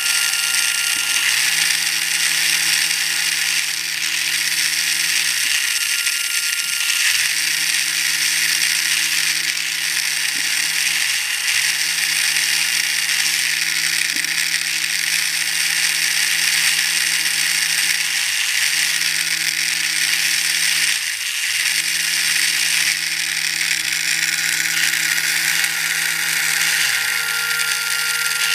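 Motor-driven radio-control escapement of an Otaki Patton M47 model tank running: a small electric motor whirring steadily with a busy, rattling gear chatter. Several times the motor hum sags in pitch for a moment and picks back up.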